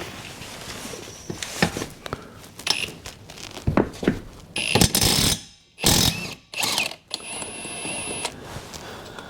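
Hand tools working on the tractor's rear wheel bolts to take the wheel off: a run of mechanical clicks and clanks with a couple of louder bursts, then a steady high whine for about a second near the end.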